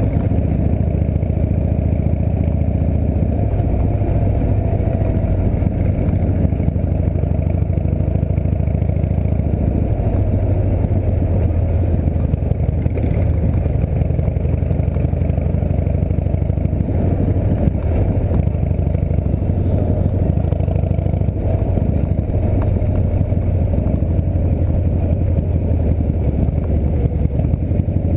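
Harley-Davidson V-twin engine of a chopper trike running steadily at low cruising speed, a deep, even rumble picked up close by a camera mounted on the trike's handlebars.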